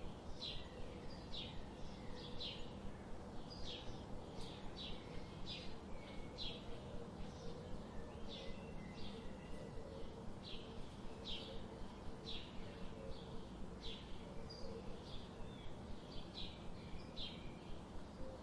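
A bird chirping over a steady rain-like hiss, in short high notes about twice a second.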